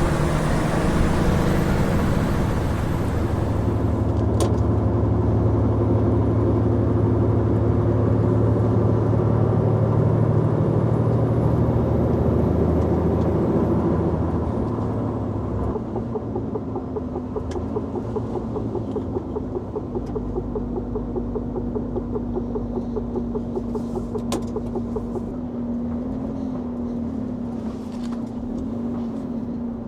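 Heavy timber truck's diesel engine running steadily. About halfway through the engine note drops lower and quieter, then settles to a steady lower run, with a few faint clicks.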